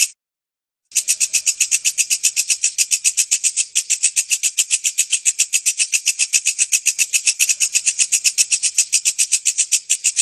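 Walang kecek insect calling: a rapid, even train of high-pitched chirps, about six a second, that cuts out completely for under a second at the start and then resumes unchanged.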